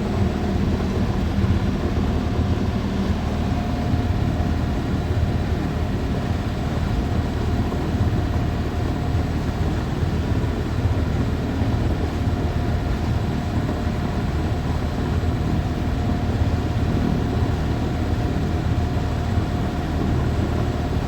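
A sailboat's engine running steadily under way, a constant low rumble with a faint steady hum above it and a wash of wind and water noise.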